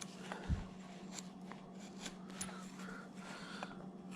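Deep number 11 carving gouge being pushed by hand through wood, giving a string of faint scraping ticks as it shaves, with one low thump about half a second in, over a faint steady hum.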